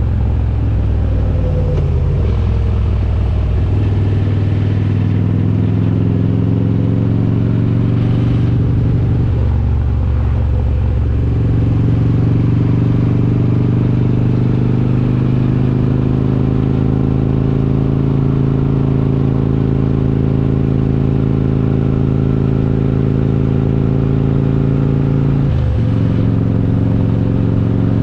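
Harley-Davidson Road King's S&S 95-cubic-inch V-twin with Super Stock heads running under way. The engine note drops and picks up again at gear changes around 2, 4 and 10 seconds in and again near the end, climbing slowly in between.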